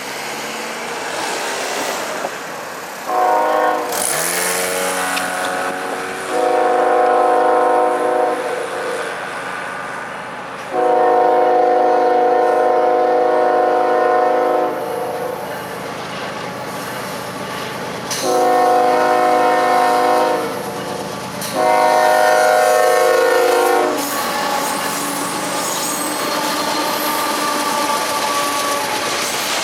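Diesel freight locomotive's multi-note air horn sounding a chord in a series of blasts, one short one about three seconds in, then four long ones, as the train approaches. After the last blast the train's steady rumble and wheel clatter carry on as it passes.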